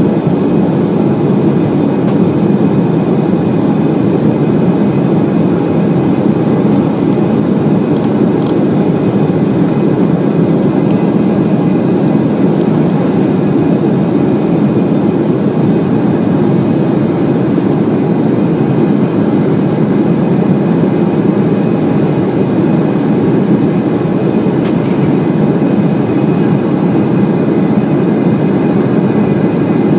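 Steady cabin noise inside an Embraer E190 jet in flight: the drone of its twin GE CF34 turbofans blended with the rush of airflow over the fuselage, loud and unchanging.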